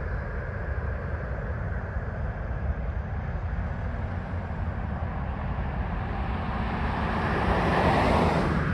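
Jet engine noise from a Boeing 737 MAX 10's CFM LEAP-1B turbofans during a go-around: a steady rumbling rush that swells to its loudest near the end.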